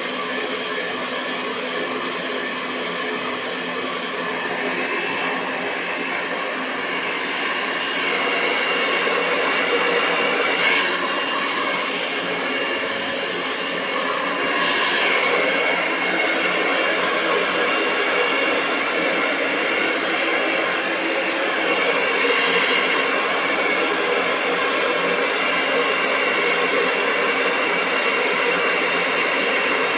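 Hair dryer running steadily: continuous airflow rush with a constant motor whine, a little louder from about eight seconds in.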